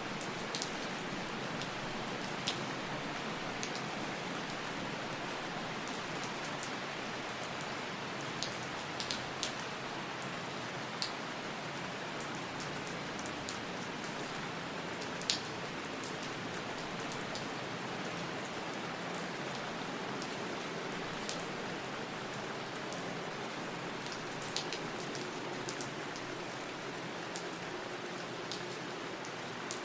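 Steady rain falling, with scattered louder individual drops ticking on a surface every second or two.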